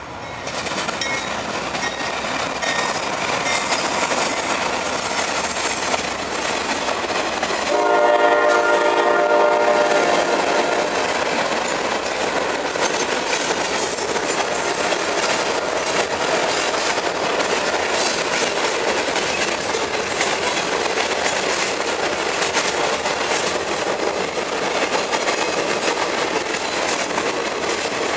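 CSX AC6000CW diesel-electric locomotive leading a freight train past at close range and sounding its horn in one long blast of about three seconds, some eight seconds in. The freight cars then keep rolling by in a steady clatter over a steel girder bridge.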